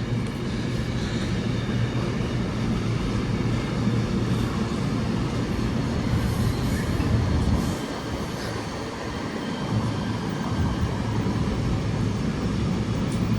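Class 88-hauled intermodal container freight train running slowly through the station, a steady low rumble of locomotive and wagons that dips briefly about eight seconds in.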